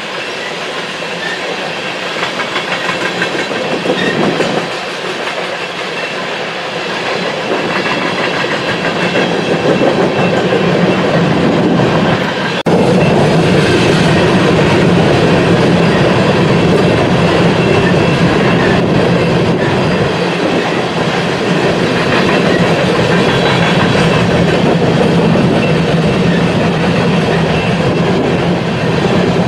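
BNSF freight train rolling past, steel wheels clattering over the rails, growing louder with a sudden jump in level about twelve seconds in.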